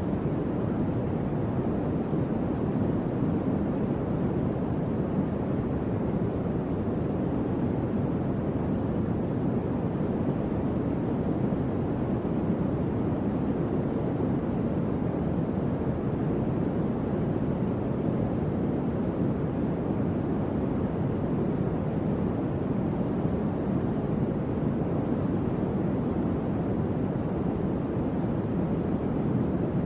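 Electric fan running: a steady, soft-toned rushing noise, deep rather than hissy, with no hum, rattle or change in speed.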